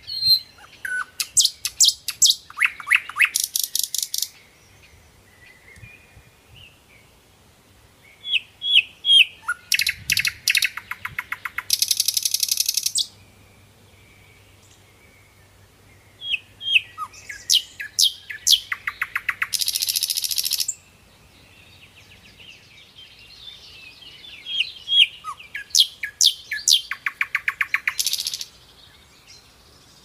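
A songbird singing in four bouts spaced about eight seconds apart. Each bout opens with a few separate high notes that speed up into a fast, dense trill.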